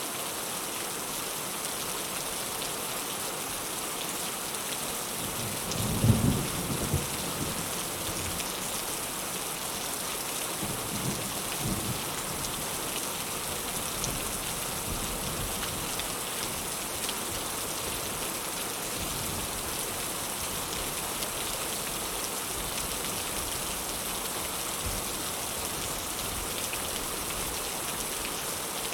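Heavy rain falling steadily, with a loud clap of thunder about six seconds in and a weaker rumble of thunder a few seconds later.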